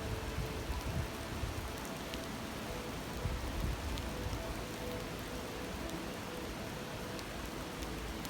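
Steady rushing and babbling of a river, with a few faint sharp crackles from a campfire.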